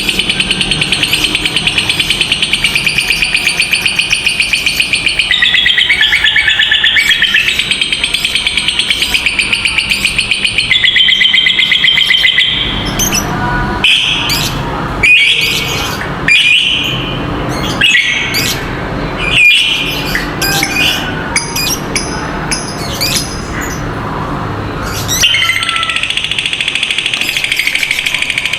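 Lovebird giving its long, rapid chattering trill (ngekek panjang), a fast high stutter that steps in pitch a few times. About twelve seconds in it breaks into separate sharp chirps and squawks, and near the end the long trill starts again.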